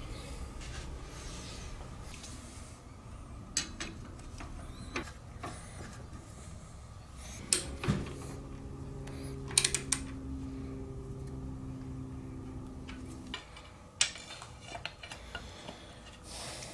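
Scattered metal knocks and clicks from handling cast-iron lathe parts during assembly, with a steady low hum for a few seconds in the middle.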